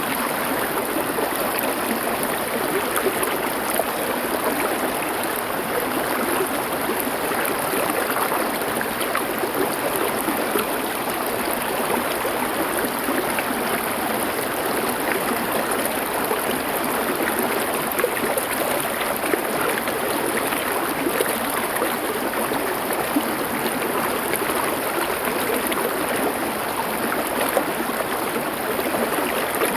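A small stream running over stones, a steady rushing babble with many small splashes and gurgles.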